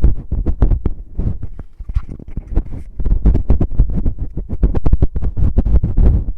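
Fingertips scratching, rubbing and tapping directly on a microphone's ear in ASMR finger ear cleaning: a fast run of muffled thuds and rustles, several a second, that lightens and thins out about two seconds in before picking up again.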